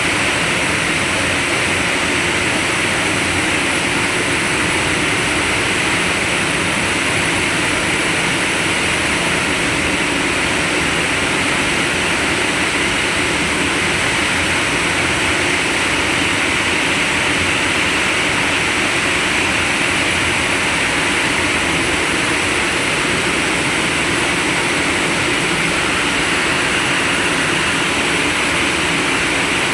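Steady, loud, unbroken running noise of heavy machinery in a blast furnace coal preparation plant, with a faint high whine above it.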